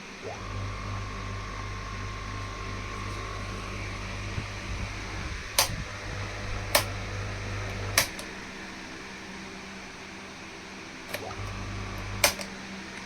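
Small electric table fan motor switched on, spinning up with a short rising whine and then running with a steady hum. It stops about two-thirds through, with a few sharp clicks along the way. Near the end it starts again for about a second and stops with a click.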